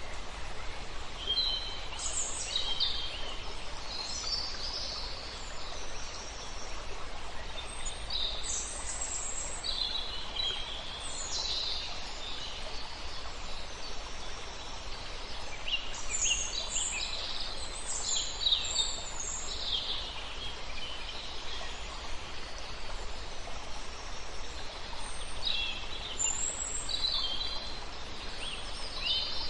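Songbirds singing in short, high, chirping phrases over a steady rush of flowing river water.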